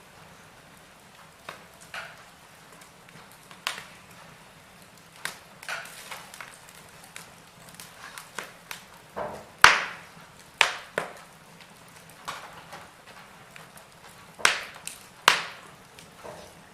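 Wood fire in a fireplace crackling, with irregular sharp pops and snaps over a faint hiss; the loudest pop comes about halfway through, with a few more strong ones near the end.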